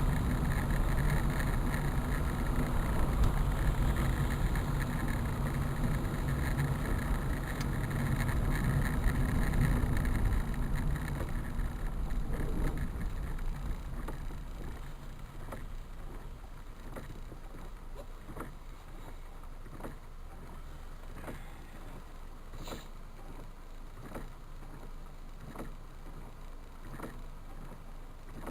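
A vehicle moving through heavy rain or floodwater: a steady rushing, splashing noise with an engine rumble that fades about halfway through. It leaves quieter noise with soft, regular knocks about once a second.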